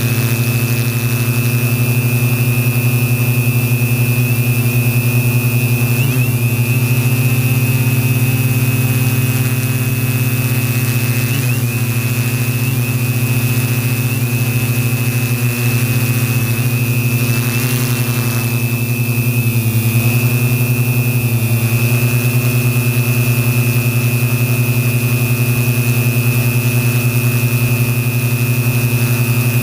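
Align M470 quadcopter's electric motors and propellers running steadily in flight: a strong low buzz under a steady high whine, the pitch wavering briefly a few times.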